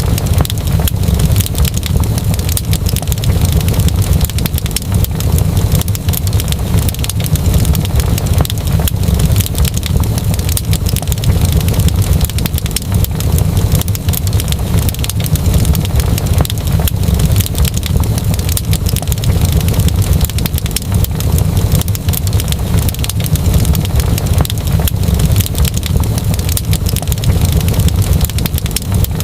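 Fireplace fire crackling continuously, with many small pops over a steady low rumble.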